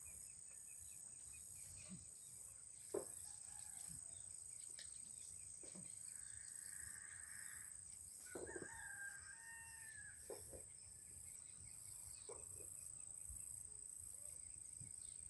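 Faint swiftlet lure call playing from speakers: a steady high chirping that pulses evenly about one and a half times a second. A rooster crows twice in the middle.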